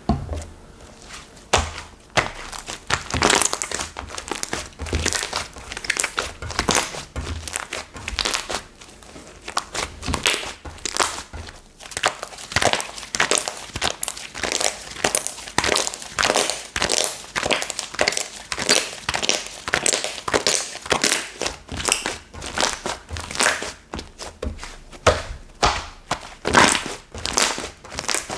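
Slime handled by hand, squeezed and pressed, giving a dense run of crackling, popping clicks throughout.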